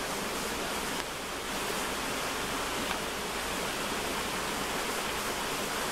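Steady rain falling hard, an even hiss without breaks.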